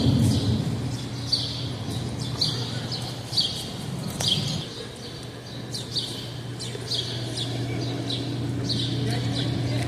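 A small bird chirping over and over, short downward-sliding chirps about once a second. Underneath, a low rumble dies away over the first few seconds, leaving a steady low hum.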